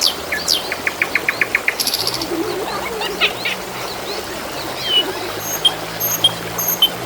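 Small birds chirping and whistling in quick, varied notes, with a fast run of repeated ticks about a second in, over a steady hiss of trickling water.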